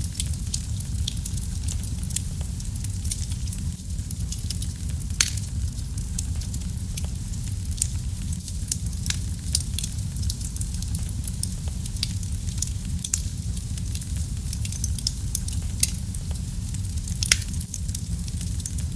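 Wood fire in a fireplace crackling: a steady low rumble of flames with scattered sharp pops and snaps, a few of them louder than the rest.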